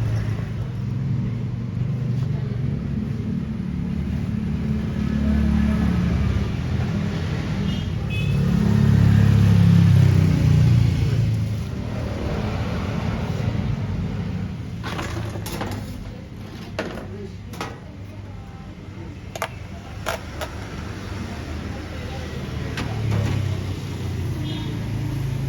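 Street traffic rumble that swells twice as vehicles pass in the first half, with background voices and several sharp clicks about two-thirds of the way through.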